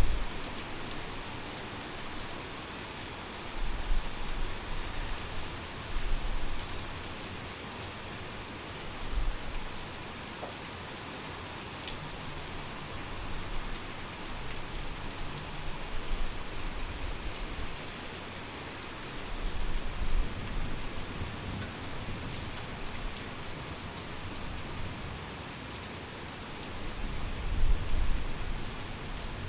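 Heavy rain falling steadily, with low thunder rumbles swelling up several times.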